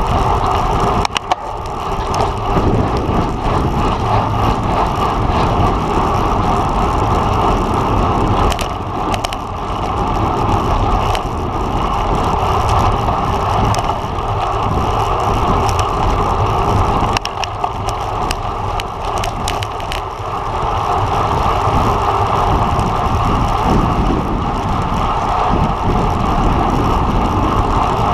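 Steady rush of wind and road noise from a road bike moving at race speed, with a few sharp clicks from the bike.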